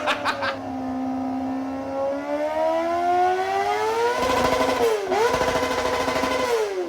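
Kawasaki ZX-4RR inline-four engine revved through an aftermarket exhaust. The revs fall with a few sharp cracks at the start, sit low for a moment and climb slowly. Then it is blipped up and held high twice, dropping between the holds.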